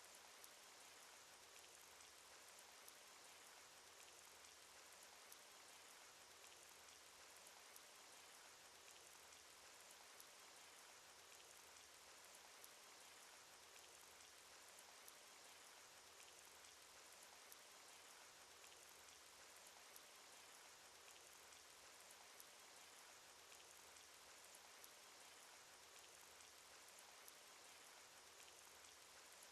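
Cartoon rain sound effect: a steady, faint hiss of falling rain, with a small drop tick every couple of seconds.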